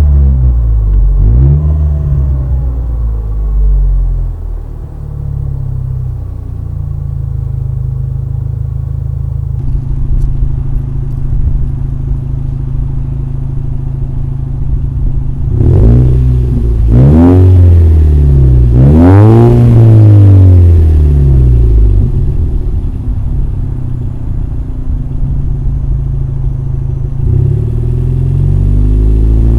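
Lexus RC's exhaust through a Remark axleback system, revved several times and dropping back to a steady idle between revs. The loudest run of revs comes in the middle, about two-thirds of the way into a long idle stretch.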